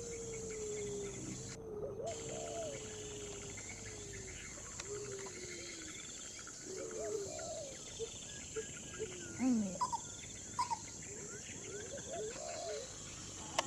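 Steady high insect buzz with low bird calls that glide up and down at intervals, and a few short, sharper calls near the end.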